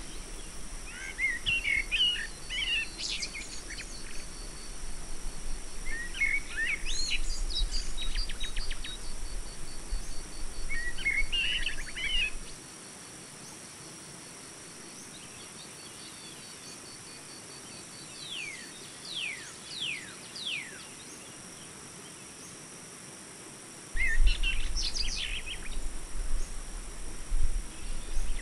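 Small birds chirping and twittering in short bursts every few seconds, with a few quick falling whistles. A low hum underneath drops out about halfway through and returns near the end.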